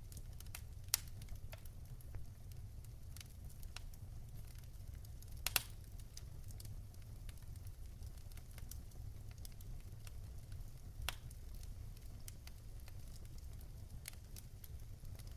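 Fire in a fireplace crackling: scattered sharp pops and snaps over a low steady rumble, with a louder pop about a second in and another near the middle.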